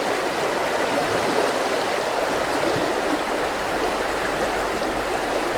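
Mountain river flowing steadily over rocks, an even, continuous water sound.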